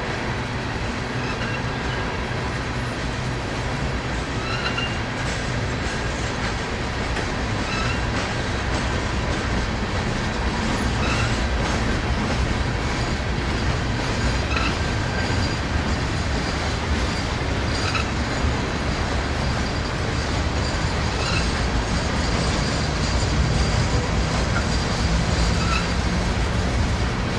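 Freight cars of a passing mixed freight train rolling by: a steady rumble of steel wheels on rail, with short high-pitched wheel squeals every few seconds. It grows slightly louder in the second half.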